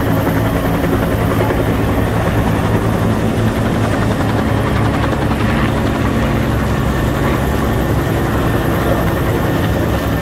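Helicopter running with a steady, unbroken drone of rotor and engine.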